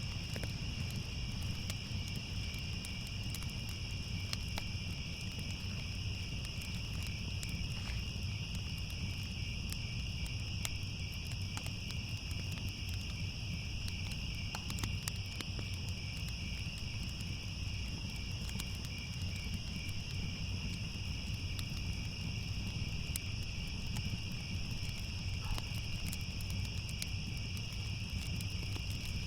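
Crickets chirping continuously in two steady high-pitched bands, over a low rumble with scattered faint crackles from a fire.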